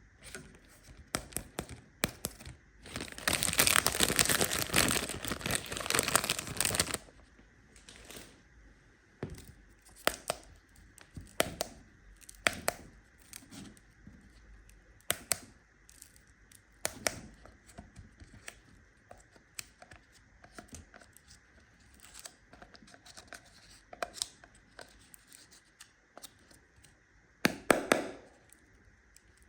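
A treat wrapper being torn open in one long rip lasting about four seconds, followed by scattered crinkles and small crackling clicks as the packaging is handled. Another short rip comes near the end.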